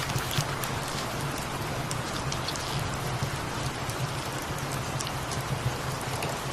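Steady rain falling, with a low continuous cat purr underneath and scattered light clicks of drops.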